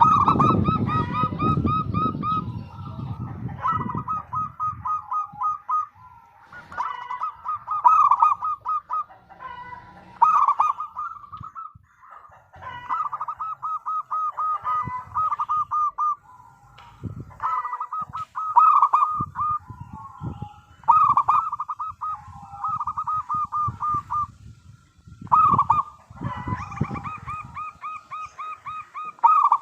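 Zebra dove (perkutut) cooing: phrase after phrase of quick, rippling repeated notes with short pauses between them. A low rumbling noise runs underneath, loudest in the first few seconds and returning in patches later.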